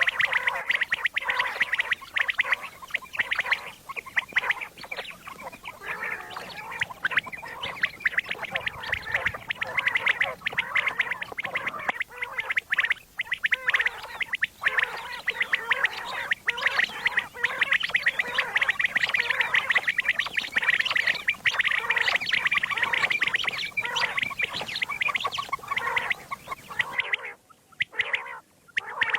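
Common quail calling in a dense, rapid, continuous chatter of short notes, breaking off briefly near the end.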